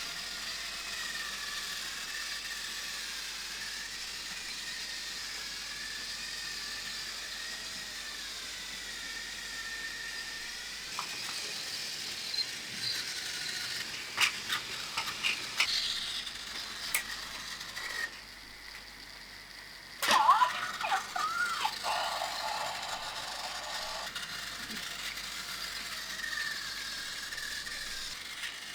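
Battery-powered Plarail toy trains running on plastic track: a steady motor whine that wavers in pitch, with sharp clicks and rattles from the trains and track pieces. A short lull about two thirds of the way in gives way to a louder clattering.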